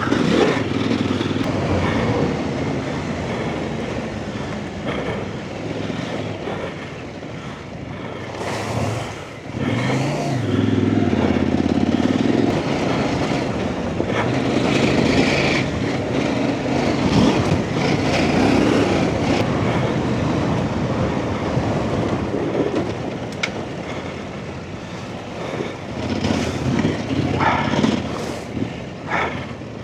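Off-road trail motorcycle engine running under changing throttle, its note rising and falling as the bike rides along a rough lane, with wind and ground noise.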